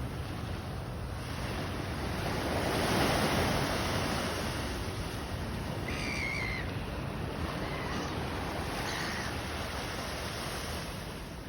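Sea surf washing in a continuous rush that swells about three seconds in. From about halfway, gulls call a few times over it.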